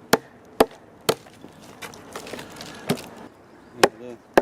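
Axe chopping into a very hard oak log in quick, sharp strokes about two a second. There is a pause of about a second and a half midway, then three more strokes.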